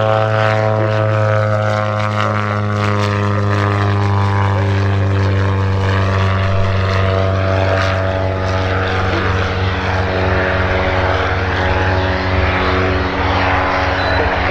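Engine and propeller of a Junqua Ibis canard homebuilt aircraft droning steadily in flight, heard from inside the cockpit. It is a loud, even, low drone with many overtones, and its pitch drifts slightly a few seconds in.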